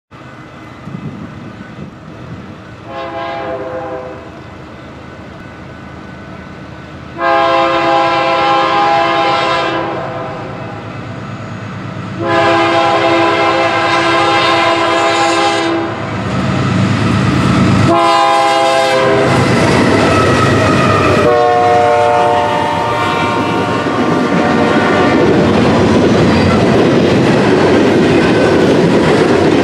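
A BNSF freight train's diesel locomotives sound their multi-note air horn as they approach: a short toot, then long, long, short, long, the grade-crossing signal. The last blast drops in pitch as the locomotives pass. The lead units then go by with a heavy diesel rumble, followed by the steady rolling clickety-clack of double-stack container cars.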